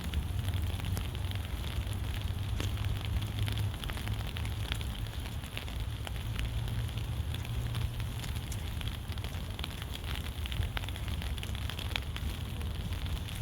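Light rain pattering on an umbrella, with many scattered close drops ticking sharply, over a steady low rumble.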